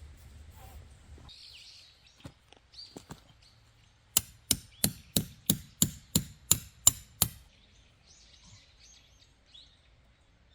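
A run of ten sharp, evenly spaced strikes, about three a second, after a few lighter knocks: a hand tool striking hard, as in driving stakes or chopping wood. Birds chirp around it.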